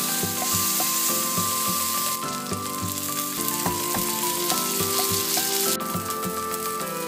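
Marinated paneer tikka skewers frying in oil on a hot iron tawa, sizzling steadily. The sizzle steps up abruptly about two seconds in and drops back near the end. Background music plays underneath.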